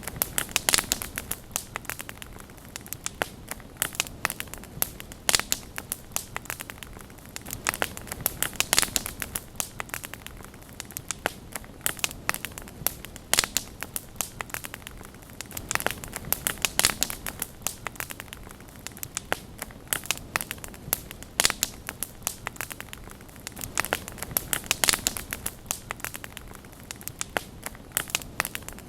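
Wood campfire burning, with irregular crackles and sharp pops over a steady low hiss of the flames.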